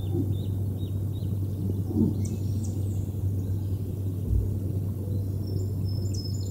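Songbirds chirping and singing, with a short burst of song a couple of seconds in and another near the end, over a steady low hum.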